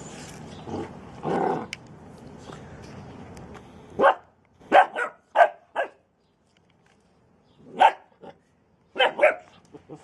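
A dog barking in short, sharp barks: a run of about five starting about four seconds in, then a single bark and a quick pair near the end.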